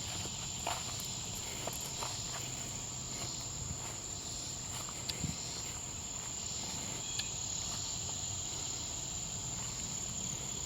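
Say's trig (a small cricket) singing in a steady, unbroken high-pitched trill, over a faint background of other insects.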